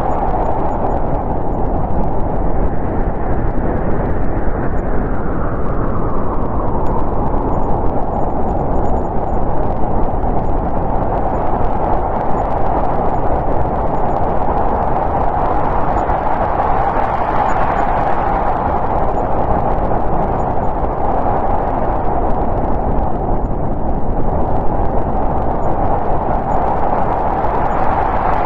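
Snowstorm wind blowing steadily, a loud, hollow, whistling rush that swells and eases in slow gusts.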